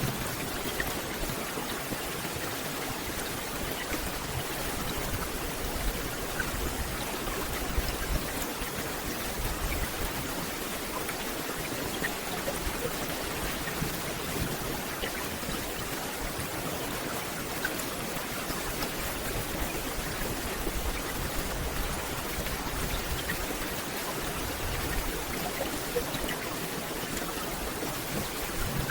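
Steady rain falling on forest leaves: an even hiss with scattered small drop ticks.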